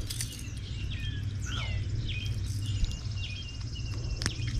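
Birds chirping, a string of short repeated calls, some sliding downward in pitch, over a steady low hum; a single sharp click comes near the end.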